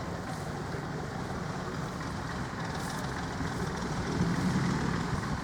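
A steady low engine rumble under an even hiss, swelling a little about four seconds in.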